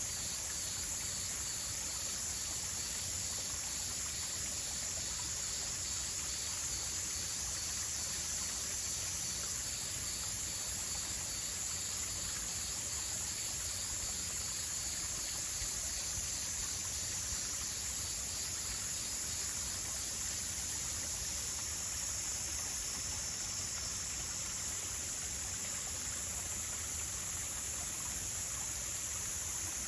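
Nature ambience: a steady, high-pitched insect chorus over a continuous rush like running stream water, with a faint regular pulsing in the insect sound during roughly the first ten seconds.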